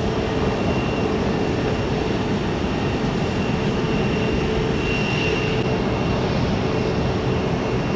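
Jet airliner engines running, a steady noise with a constant low hum and a thin high whine over it.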